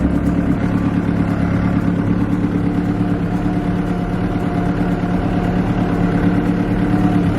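New Holland tractor's diesel engine running steadily at low throttle as the tractor moves slowly across a field in a low gear.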